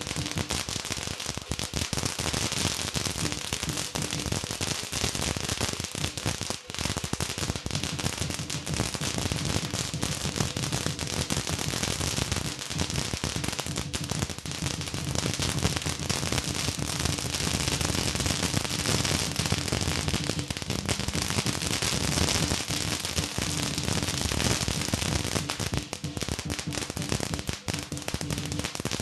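Chinese New Year firecrackers going off in a dense, continuous rattle of rapid pops.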